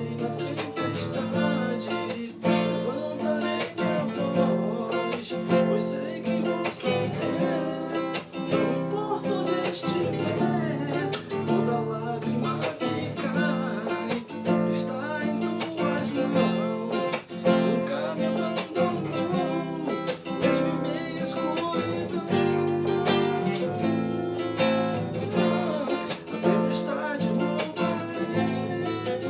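Music: acoustic guitar strumming steadily.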